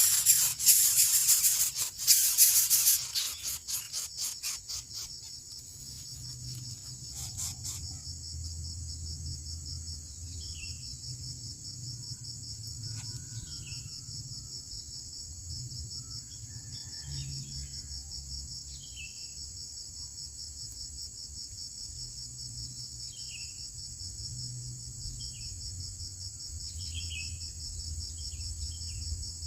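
Steady, high insect trilling throughout, with short high chirps scattered through the second half. A loud crackling rustle opens the first few seconds and fades out.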